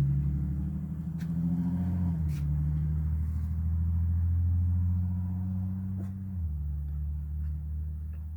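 Car engine droning low and steady as a car drives slowly past; its pitch drops a step about two seconds in and again near the end, and it slowly fades as the car moves away.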